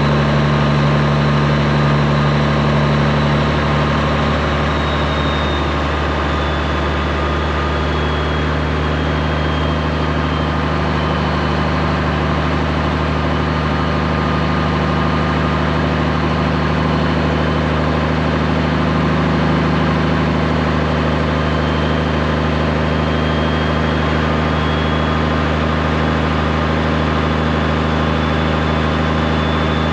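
Straight-piped Peterbilt 389's diesel engine running steadily. Its note shifts slightly about five seconds in.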